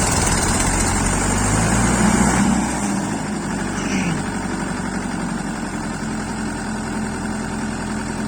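Tractor diesel engines working hard together to pull a stuck tractor out of the mud. About three seconds in the load eases and the engines settle to a quieter, steady running.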